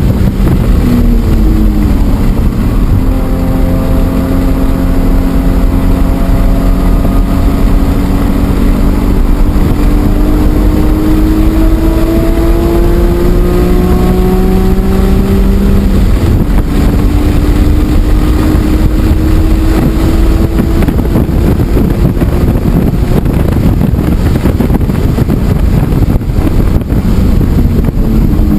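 E46 BMW M3's straight-six engine under load on track, its pitch climbing slowly for about fifteen seconds, dropping at a shift about halfway through, then climbing again, with another change near the end. Heavy wind and road noise run beneath it.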